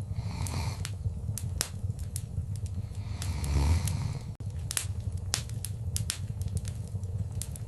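Wood fire crackling: sharp pops scattered throughout over a steady low rumble. The rumble swells louder about three and a half seconds in, and the sound drops out for an instant just after.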